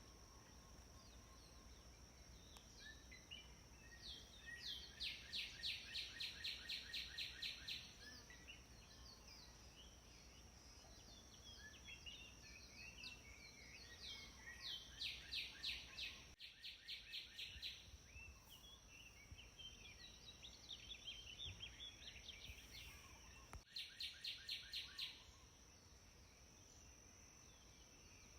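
Birds singing: three bursts of fast, evenly repeated high trilling notes, with scattered short chirps in between, over a steady high-pitched tone.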